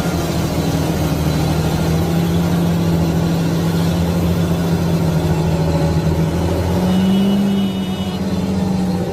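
Large tractor diesel engine running steadily, its pitch rising briefly about seven seconds in before settling back.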